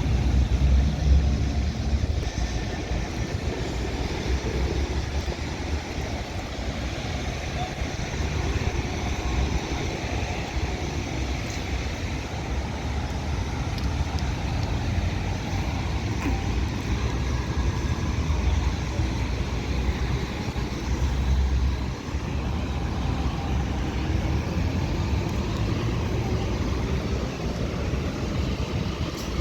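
Road traffic running steadily, with a heavy low rumble of wind on the microphone.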